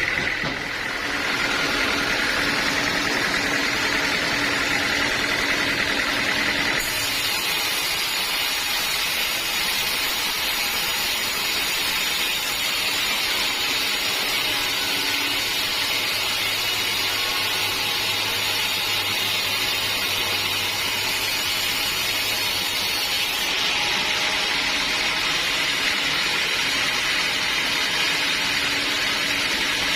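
Sawmill machinery running steadily, a constant mechanical noise whose tone changes abruptly about seven seconds in and again about 23 seconds in.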